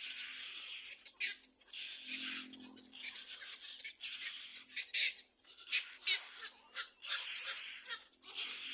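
Little black cormorant nestling giving a string of rasping begging cries, each lasting about half a second to a second, with sharp clicks in between.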